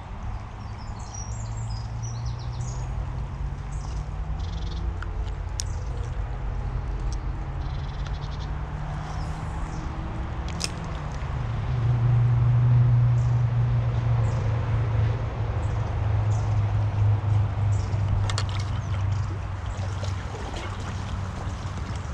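Small birds chirping in quick high notes, mostly in the first few seconds, over a steady low rumble that swells about halfway through and stays louder for several seconds.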